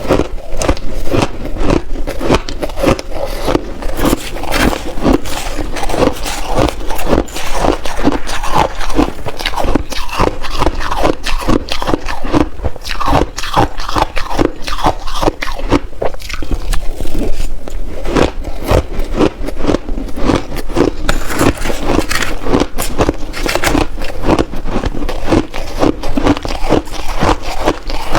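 Close-up crunching of shaved ice being bitten and chewed in big mouthfuls, a rapid run of crisp crunches with scraping sounds mixed in.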